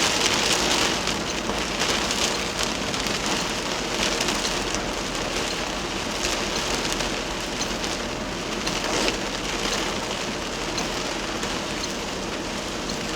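Heavy rain falling in a steady hiss, with scattered sharper drop impacts.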